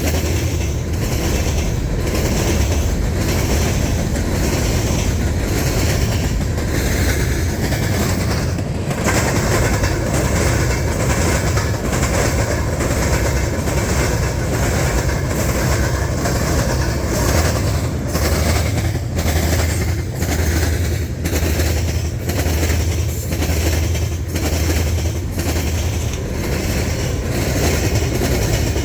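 Freight train rolling past at close range, a steady low rumble with the railcar wheels clacking regularly over the rail joints.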